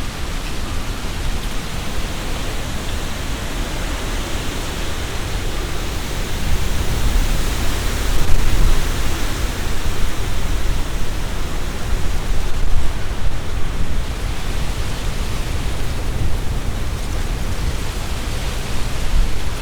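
Strong wind gusting through tree leaves, a dense rustling with a low rumble underneath. The wind swells about seven seconds in and stays stronger for several seconds before easing.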